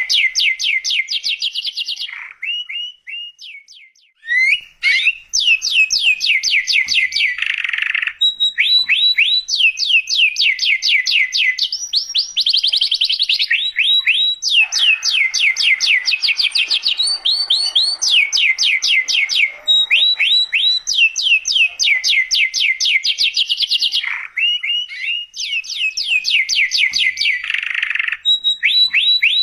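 Domestic canary singing a continuous song of rapid trills: phrase after phrase of quick repeated notes, with a short break about two to four seconds in.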